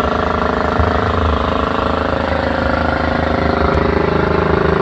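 Engine running steadily with a low, rapid pulsing.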